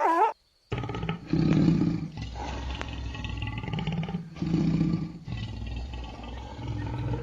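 Lion roaring: deep, rough roars that swell loudest about a second and a half in and again near five seconds.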